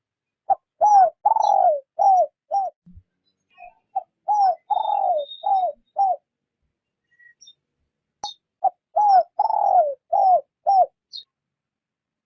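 Spotted dove cooing in the 'rút bổi' lure-call style: three phrases of about five coos each, every coo sliding down in pitch and the second one drawn out longest. Faint high chirps of small birds are heard between the phrases.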